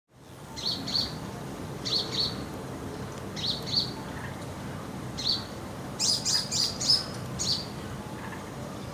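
House sparrow chirping: short chirps in pairs every second or so, then a quicker run of chirps about six seconds in, over a steady low background noise.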